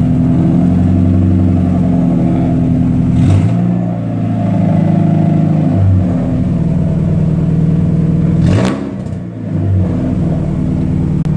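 First-generation Mazda Miata's four-cylinder engine running loud with no exhaust fitted, its note rising and falling slightly. Sharp cracks come about three seconds in and again about eight and a half seconds in.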